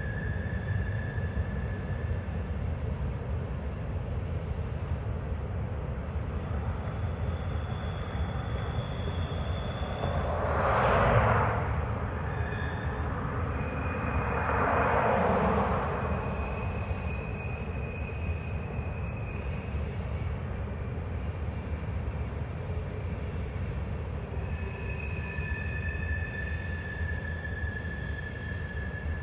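Norfolk Southern train rolling along the track: a steady low rumble, with faint high thin tones coming and going and two louder swells of noise, each a second or two long, near the middle.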